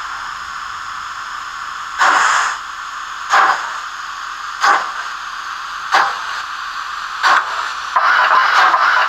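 Digital steam sound from a Märklin H0 model of a DB class 56.2-8 steam locomotive, played through its small onboard speaker: a steady steam hiss, then slow exhaust chuffs about one every 1.3 seconds, changing to a faster, denser chuffing about eight seconds in.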